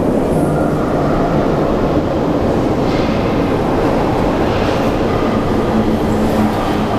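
Pyongyang Metro train running at speed, a loud steady rumble of wheels on rails heard from inside the car, with a low steady hum joining about six seconds in.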